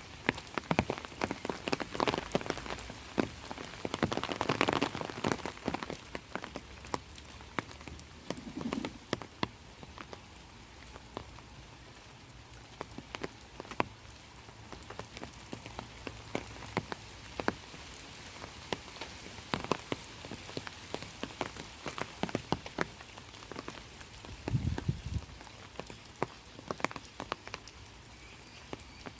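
Rain falling steadily, with many individual drops pattering and ticking irregularly, heavier in the first few seconds. A short dull low thump comes near the end.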